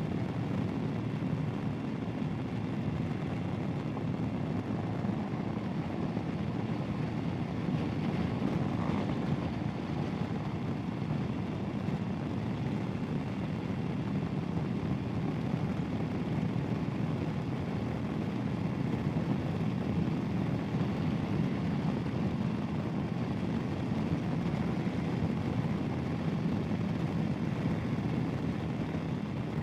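Royal Enfield Himalayan's single-cylinder engine running steadily on the move, mixed with wind noise, with no change in engine note.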